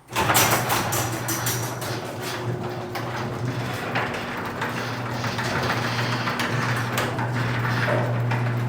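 Garage door running on its opener: a steady motor hum with the rollers clicking and rattling along the metal tracks. The rollers and tracks run metal on metal, not yet lubricated, and the door is judged to run less smoothly than it could.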